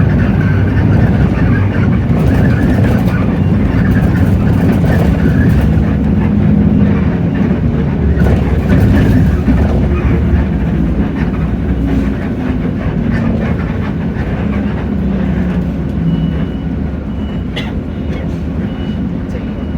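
Hino J08E-VN 7.7-litre straight-six diesel in a Hino bus, heard on board, pulling through its five-speed manual with the engine note rising and falling at the gear changes. Past the middle it eases off and goes quieter, and a high intermittent beep sounds near the end.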